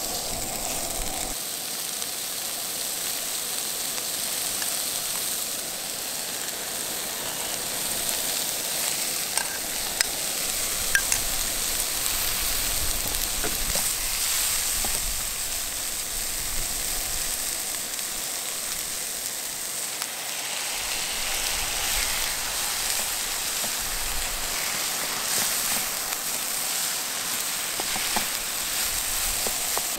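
Turkey, onion and rice stir-frying for fried rice in a nonstick skillet, sizzling steadily while a wooden spatula stirs and scrapes through the pan, with a few sharp clicks.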